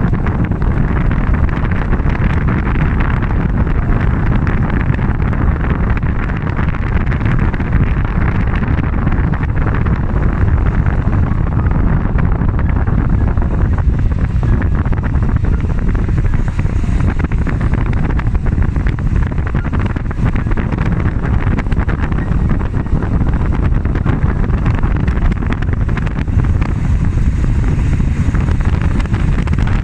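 Wind buffeting the microphone: a loud, steady, rumbling roar that holds throughout.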